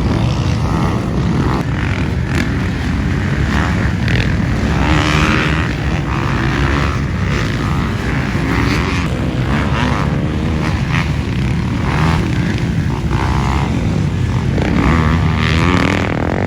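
Dirt bike engines running at a motocross track: a steady, loud engine drone with no breaks.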